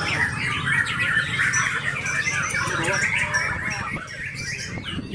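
White-rumped shama (murai batu) singing: a fast, dense run of varied whistles and chattering notes, easing off about four seconds in.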